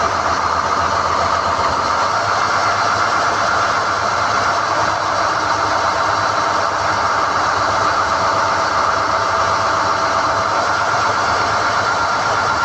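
SDH-1600 core drilling rig running steadily while NQ drill rods are hoisted: a loud, even machine noise with no pauses.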